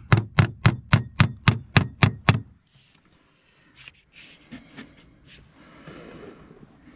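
Hammer driving a nail into a fibre-cement slate: about nine quick, even blows, roughly four a second, stopping about two and a half seconds in. Faint handling and rustling noises follow.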